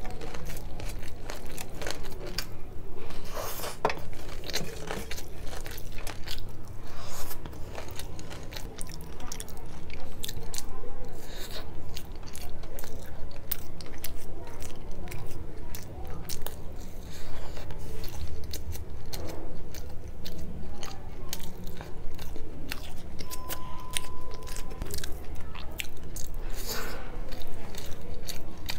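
Close-miked eating: crunching and chewing of crisp deep-fried food eaten by hand, a dense run of sharp crunchy bites and chews.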